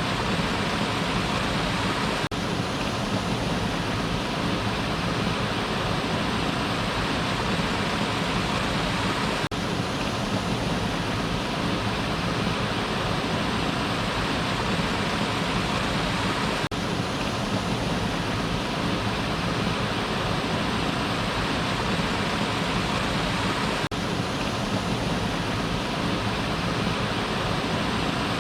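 Waterfall: water falling and splashing in a steady, unbroken rush, with a faint brief dip about every seven seconds.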